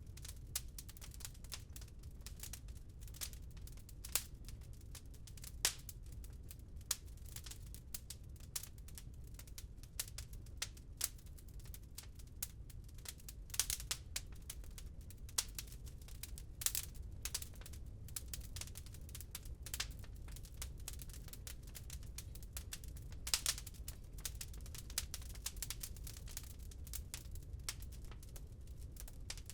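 Wood fire crackling in a fireplace: irregular snaps and small pops, several a second with an occasional louder crack, over a steady low rumble.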